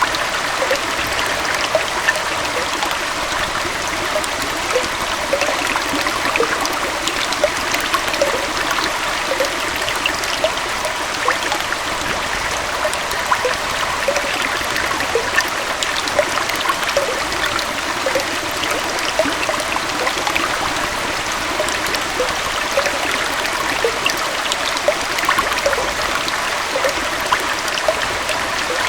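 Gentle waterfall, with water flowing and splashing steadily and many small drips and splashes scattered through the rush.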